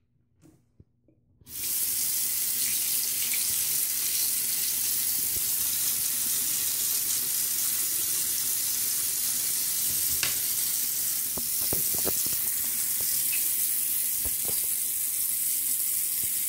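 Bathroom sink tap turned on about a second and a half in, water running steadily into the basin, with a few light knocks partway through.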